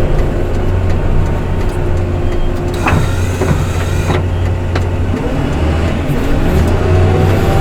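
Engine of a snow-clearing machine running steadily, its low hum rising and easing with load, with a couple of sharp clanks about three and four seconds in.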